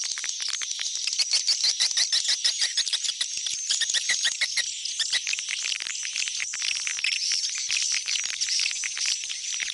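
Swiftlet calls: a dense, continuous chatter of rapid high chirps and clicks from many birds, the kind of swiftlet sound track played to call swiftlets back to a nesting house. A faint low hum runs under it from about halfway in.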